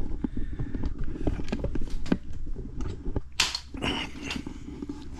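Scattered light clicks and knocks over a low hum, with a short rustle about three and a half seconds in.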